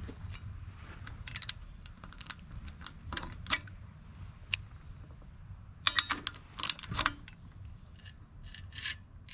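Small metal tools and parts being handled: irregular clicks and clinks in short clusters, the busiest and loudest a little past the middle, over a low steady hum.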